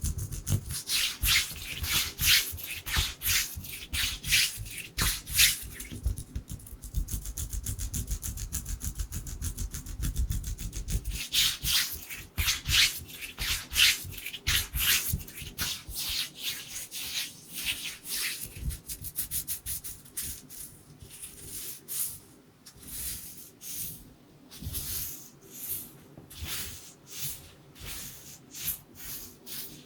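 Dry bare hands rubbing and brushing together close to the microphone, in a fast run of rapid swishes. After about sixteen seconds the strokes slow and come one by one, spaced apart.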